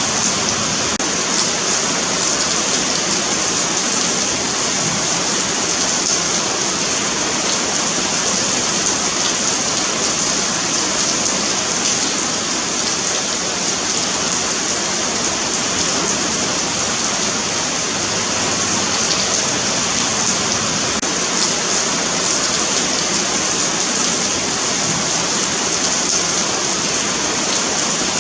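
Steady rain falling on a sidewalk, a continuous hiss with faint scattered drop ticks.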